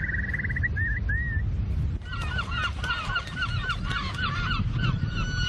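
A flock of waterbirds calling: a quick trill in the first second or so, then from about two seconds in many short repeated calls overlapping one another, over a steady low rumble.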